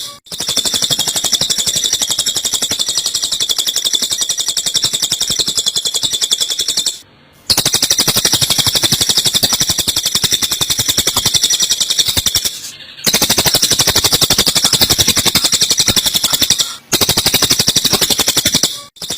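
Masteran birdsong recording: Eurasian tree sparrows' fast fighting chatter mixed with cililin calls. Many high-pitched notes a second in long unbroken runs, with short breaks about 7, 13 and 17 seconds in.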